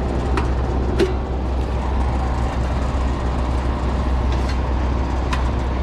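Lennox outdoor condenser with only its fan motor running, a steady low hum, while the compressor stays silent; the cause is a failed, bulged capacitor. A few sharp clicks come about half a second in, after a second, and near the end.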